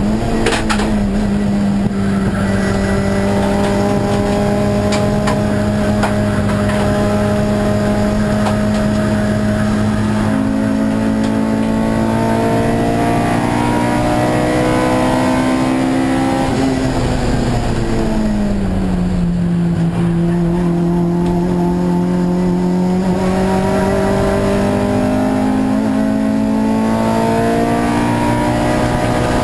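Honda Civic race car's 1.8-litre four-cylinder engine at full throttle, heard from inside the stripped-out cabin. Its pitch jumps up right at the start, then climbs slowly through a long pull. A little past halfway it falls, then climbs again.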